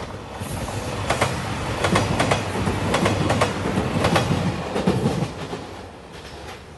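JR Shikoku 2700-series diesel express train passing close by, its wheels clacking over the rail joints in quick groups of clicks over a low rumble. It is loudest mid-pass and fades away near the end.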